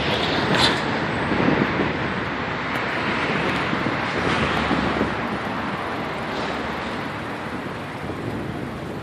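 Steady rushing noise of wind and street traffic heard from a moving bicycle, easing off slowly over the seconds.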